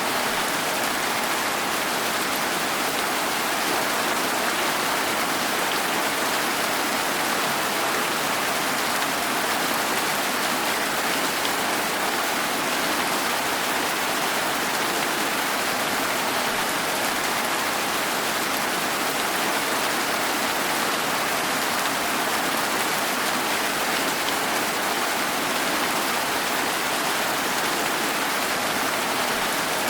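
Steady rain falling, an even, unbroken hiss that keeps the same level throughout.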